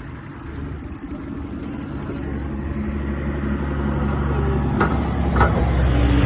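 A motor vehicle's engine drawing closer, its low, steady running growing louder throughout, with two brief clicks about five seconds in.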